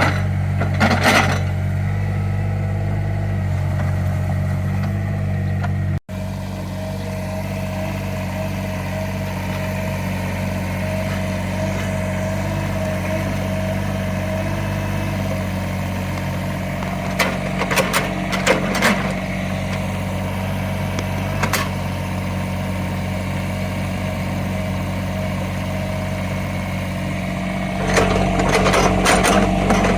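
Small CAT excavator's diesel engine running steadily with a hydraulic whine, broken by short bursts of clanking and scraping a few times as the bucket works the soil.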